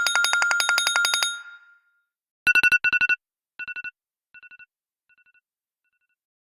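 iPhone ringtone: a rapid, high electronic trill that fades out about a second and a half in, then after a short gap a row of short trill bursts, each fainter than the last, dying away.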